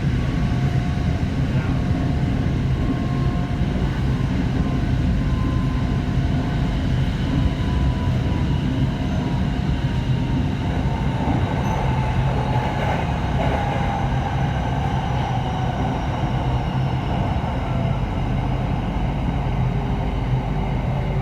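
Hitachi electric commuter train running on the rails with a steady rumble and a thin whine, which slowly falls in pitch from about halfway through.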